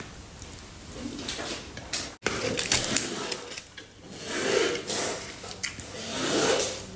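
Close-up eating sounds: chewing a mouthful of sticky rice and crisp-baked chicken-of-the-woods mushroom, with a few short crunches and wet mouth sounds.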